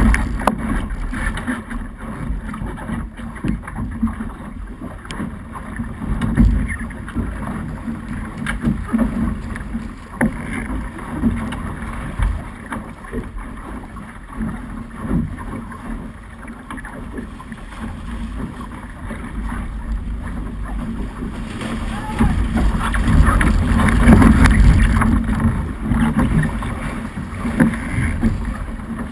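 Wind buffeting the microphone of a camera mounted on a Snipe sailing dinghy under way, over the rush and slap of water along the hull. It grows louder about three-quarters of the way through.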